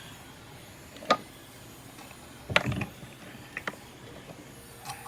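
A sharp click about a second in, then a short clatter of knocks and a few lighter clicks: small metal hand tools being picked up and set down during jewelry soldering.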